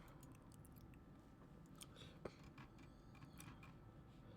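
Near silence: room tone with a few faint clicks of a computer mouse, the sharpest about two seconds in.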